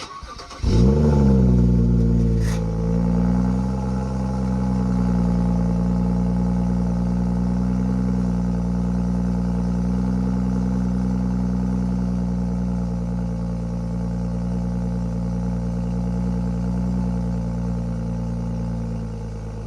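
BMW N55 3.0-litre turbocharged straight-six in an X3 F25 starting from cold: a brief crank of the starter, the engine catches with a rev flare, then settles into a steady fast cold idle that eases down slightly near the end. A single click sounds about two and a half seconds in.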